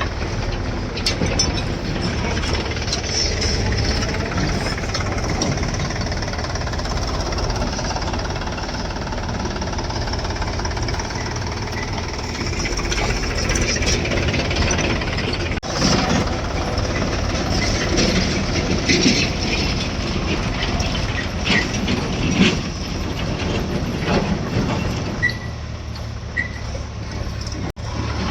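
Diesel engine of a backhoe loader working steadily under load while loading mud into a tractor trolley, with repeated metal clanks and knocks from the bucket and trolley, louder several times in the second half.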